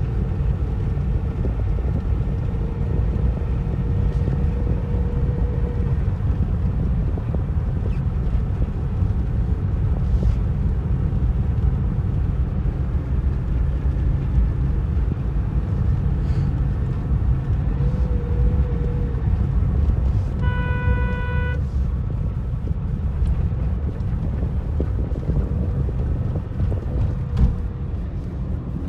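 Steady low rumble of a moving road vehicle with wind on the microphone. A vehicle horn sounds once for about a second around twenty seconds in.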